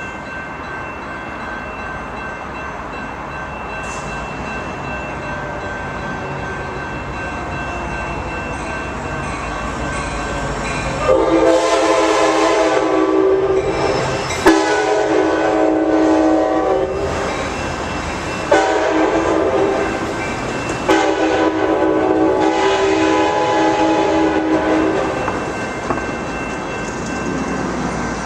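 Amtrak Surfliner train's multi-chime air horn sounding four blasts, the last the longest, over the rumble of the approaching train.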